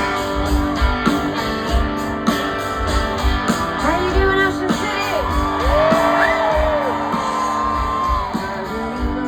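Live rock band playing with guitars over a steady drum beat, and a voice singing sliding, held notes through the middle.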